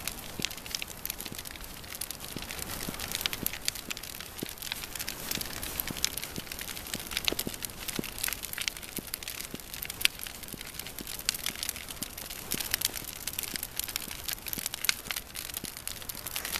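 Large bonfire burning, a steady hiss with frequent sharp crackles and pops.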